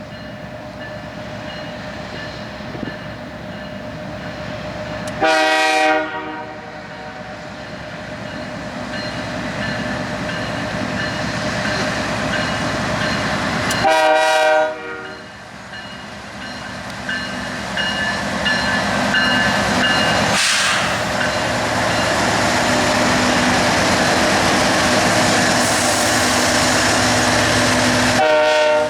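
Train approaching, its rumble growing louder, while the locomotive's air horn sounds three short blasts, about 5 seconds in, about 14 seconds in and at the very end.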